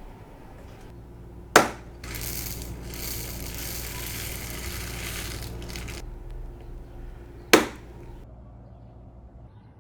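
Bead packaging being handled: two sharp clacks about six seconds apart, with a few seconds of steady rustling and rattling between them.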